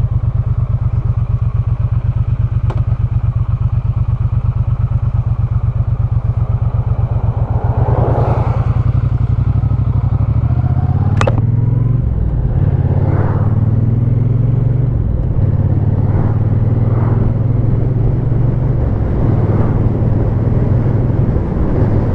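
Triumph Bonneville's parallel-twin engine idling with an even beat, then pulling away about eight seconds in, its pitch rising and dropping in steps at several gear changes. A sharp click about eleven seconds in.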